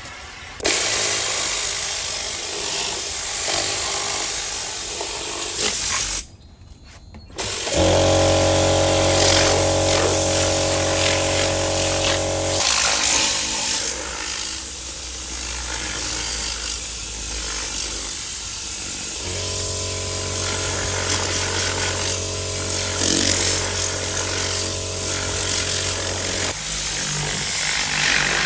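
Electric motor of a piece of detailing equipment humming steadily in two stretches of several seconds each, over a constant hiss. The hiss drops out briefly about six seconds in.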